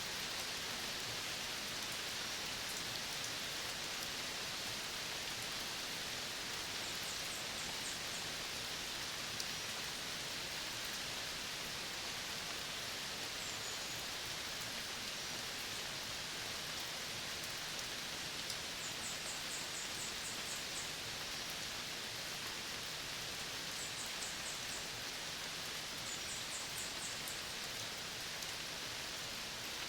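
Steady, even hiss of a tropical dry-forest soundscape, with four short trains of rapid, very high ticking trills and one brief high whistle.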